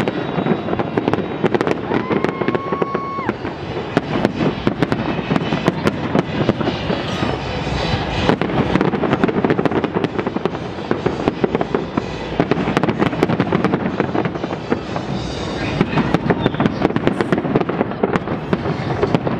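Fireworks display in a rapid barrage: dense, continuous bangs and crackling of many shells bursting close together, with a short steady whistle about two seconds in.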